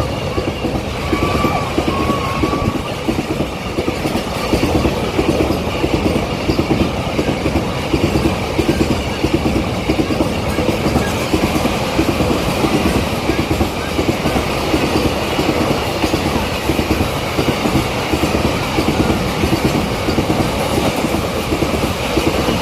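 Goods train passing at speed, its wagons' wheels clattering rapidly and continuously over the rails.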